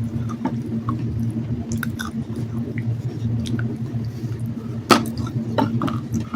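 Close-up chewing and crunching of water-soaked black sandstone: scattered small crackles and wet squishes, with one louder crunch about five seconds in, over a steady low hum.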